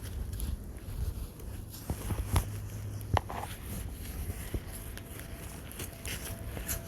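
Footsteps and scraping in snow: scattered crunches and knocks, two sharper knocks in the middle.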